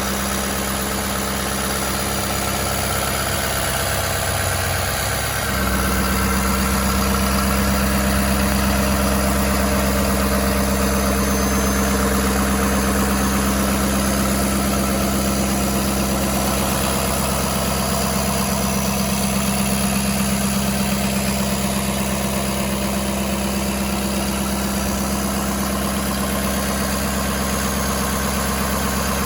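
A 2015 Ford F-250 Super Duty pickup's engine idling steadily. Its note steps up slightly and grows a little louder about five seconds in, then holds steady.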